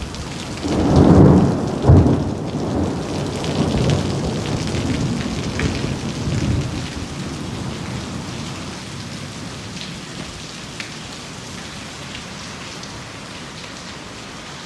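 Rain falling steadily, with a low rumble of thunder about a second in and a sharp loud crack near two seconds; the rain then goes on, slowly easing.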